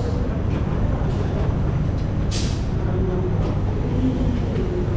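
Steady low rumble of a moving passenger train, with a short hiss about two seconds in.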